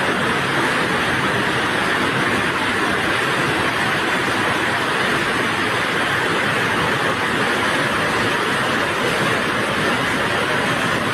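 Electrical arc from a short circuit on a 110 kV power line, giving a loud, steady hiss that holds even throughout.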